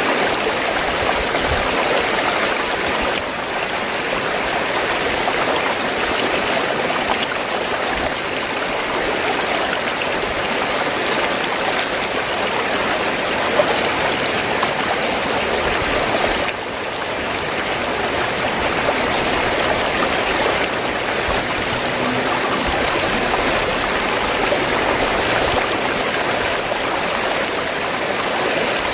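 Fast-flowing stream water gurgling and rushing over rocks, a steady dense wash of sound with small dips in level now and then.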